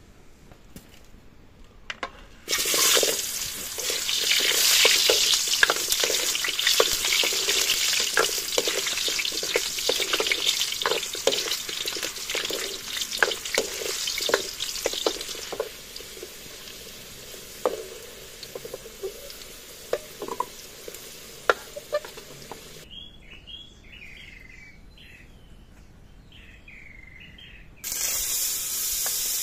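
Potatoes and carrots frying in hot oil in a metal wok, a loud sizzle that starts suddenly about two seconds in, with the ladle clicking and scraping against the pan as they are stirred; the sizzle dies down partway through. Near the end a fresh loud sizzle starts suddenly as margarine goes into the hot wok.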